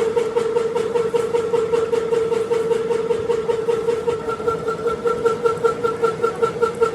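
A workshop machine running steadily, a droning hum with an even pulsing beat of about five a second that grows more pronounced about four seconds in.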